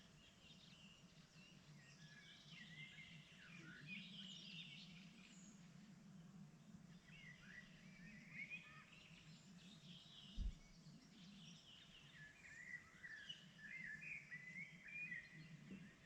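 Faint spring birdsong: several small songbirds chirping and warbling in short, overlapping phrases, over a steady low background rumble. A single brief low thump about ten seconds in.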